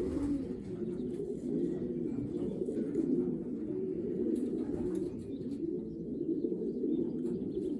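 A loft full of racing pigeons cooing, many birds overlapping into a continuous low burbling.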